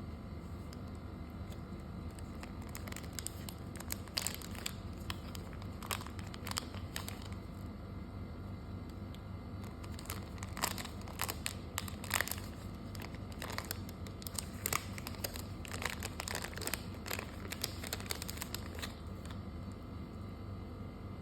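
Packaging being handled: plastic and paper crinkling and rustling in irregular short crackles, busiest through the middle, over a steady low background hum.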